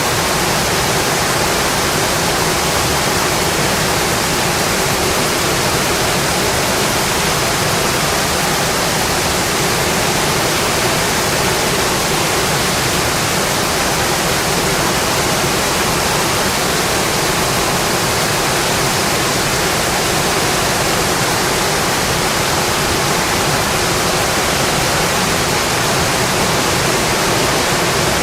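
Steady rainfall: an even, unbroken hiss with no separate drops, thunder or other events standing out.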